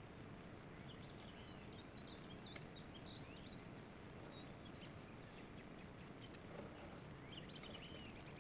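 Faint birds chirping over a low steady outdoor hiss, with a quicker run of chirps near the end.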